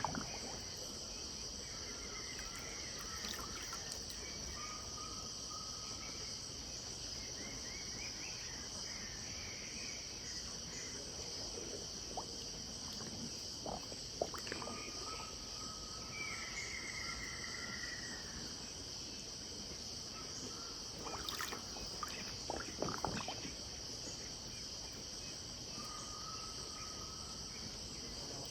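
Riverside dusk ambience: a steady high insect drone, with scattered short bird calls and one longer falling call about halfway through. A few brief sharp sounds, likely from the water, come in the middle and about three quarters of the way in.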